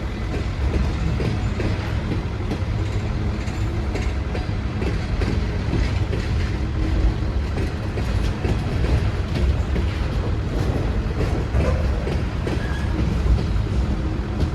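Train rolling along the track: a steady low rumble with the wheels clicking over the rail joints.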